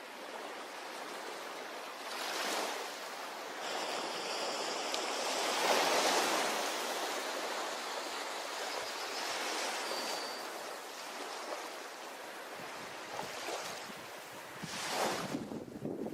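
Ocean waves breaking and washing up on a shore, a steady rushing that swells about six seconds in and surges again near the end.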